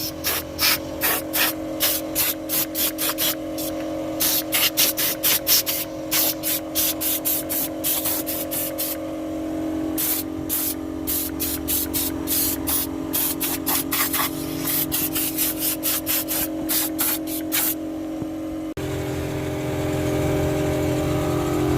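Rapid short spray bursts, two to three a second, cleaning an air-conditioning blower, over a steady motor hum. Near the end the spraying stops and the hum shifts to a slightly different pitch.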